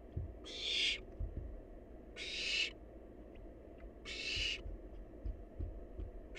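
Barn owl nestling hissing: three drawn-out breathy hisses about every two seconds, the rhythmic 'snoring' food-begging call of barn owl chicks. Soft low bumps fall between the hisses.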